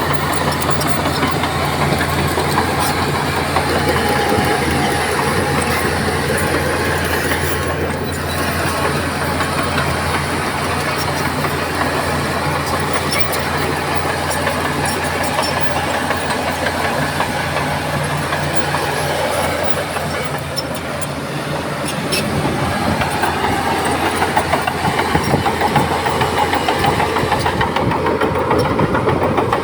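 Heavy diesel engine of earthmoving machinery running under steady load, growing louder about three-quarters of the way through.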